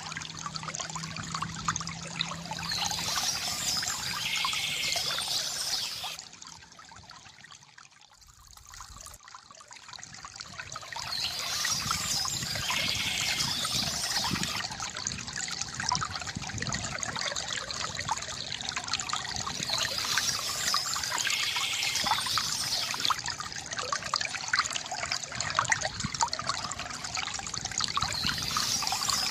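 Water trickling and splashing from a bamboo fountain. It falls quieter for a few seconds about six seconds in, then comes back to its full level.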